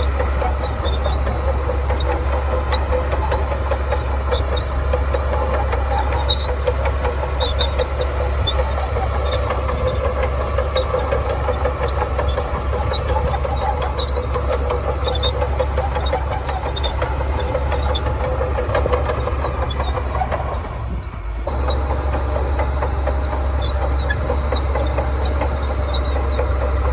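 Heavy diesel engine of a Shantui crawler bulldozer running steadily while it works, with faint light ticks above the drone. The level drops briefly about three-quarters of the way through, then the engine sound returns.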